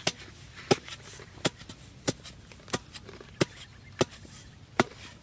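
A steady series of sharp chopping or knocking strikes, about eight in all, roughly one every two-thirds of a second.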